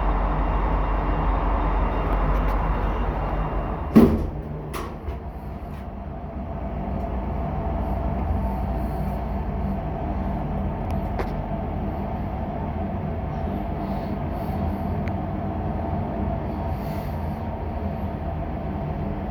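Schindler hydraulic elevator: the door shuts with a sharp thump about four seconds in, then after a short lull the hydraulic pump motor starts and runs with a steady hum as the car travels.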